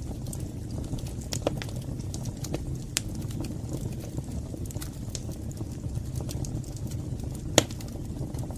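Wood fire burning in a fireplace: a steady low rumble of flames with scattered crackles and pops, the sharpest pop about seven and a half seconds in.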